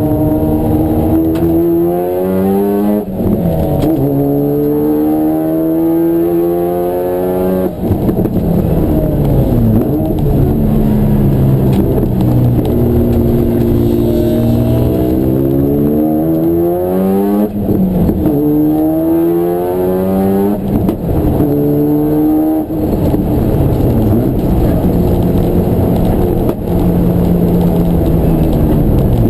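Race car engine under hard acceleration, its pitch climbing and then dropping sharply at each upshift every three to four seconds. Twice the engine note falls away as the car slows, around 8 s and again after about 21 s.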